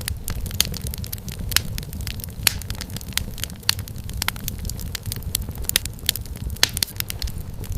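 Wood fire crackling: irregular sharp pops and snaps, several a second, over a low steady rumble of the burning fire.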